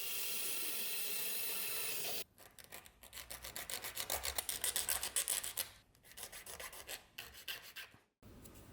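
A steady hiss for about two seconds, then quick back-and-forth strokes of hand filing or sanding, several a second, in two runs with a short break between.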